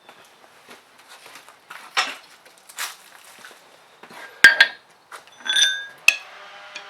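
Scattered clinks and knocks of steel and forging tools being handled, with a sharp metal strike about four and a half seconds in and a ringing metallic clang about a second later.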